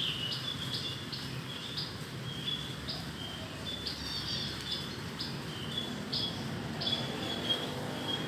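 A small songbird chirping over and over, short high notes every half second to a second, over a steady hiss of falling rain.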